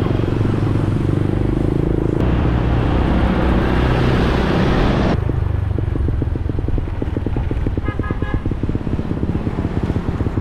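Motorcycle engine running under way, with wind rushing over the microphone. About five seconds in the wind stops abruptly and the engine carries on as a fast, even putter, with a brief run of short high beeps near the end.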